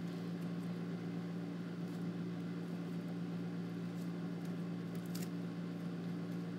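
Steady room hum from a running air conditioner, with a few faint handling clicks about four and five seconds in.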